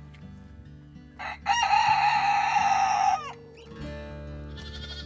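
A rooster crowing once: a short rise into a long held call that falls away at the end, with soft background music under it.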